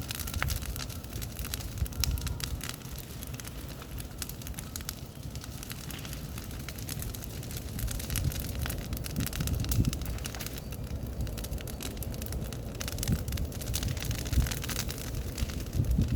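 Bonfire crackling with many small sharp pops, over a low uneven rumble of wind on the microphone.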